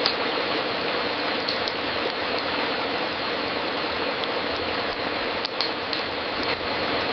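Wood fire crackling in a fireplace: a steady hiss with scattered sharp pops, one right at the start, two about a second and a half in, and a small cluster near the end.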